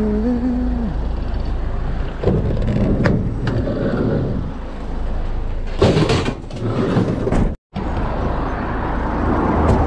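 Scrap metal being handled and loaded into a vehicle, with knocks and clatter over a steady low vehicle rumble. There is a short squeak in the first second and a loud rattling clatter about six seconds in.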